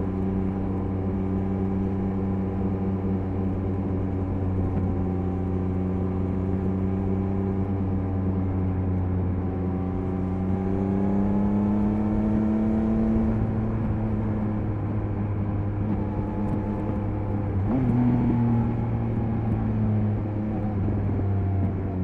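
Triumph Speed Triple 1050 RS three-cylinder engine running steadily while cruising. Its note rises gently about halfway through, and the engine note changes abruptly a few seconds before the end.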